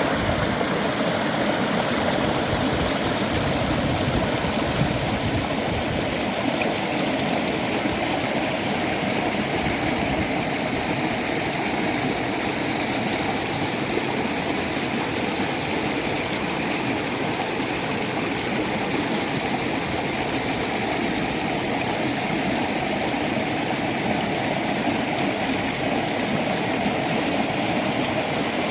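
Shallow mountain stream running steadily over rocks, a continuous rushing and babbling of water.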